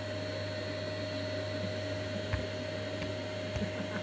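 Vacuum cleaner running steadily with a constant whine, with a couple of brief knocks, the clearest about two seconds in.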